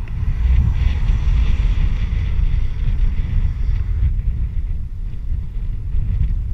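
Wind buffeting the microphone during a bike ride, a heavy, uneven low rumble, with a fainter hiss over it that drops away about four seconds in.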